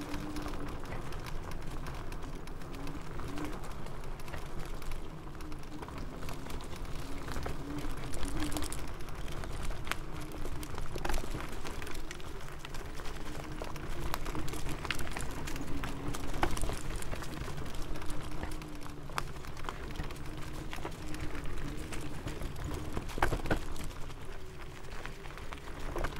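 KuKirin G2 Max electric scooter riding over a rough forest trail. A low rumble runs throughout, with a faint wavering motor whine that rises and falls with speed, and frequent short clicks and rattles as it goes over bumps.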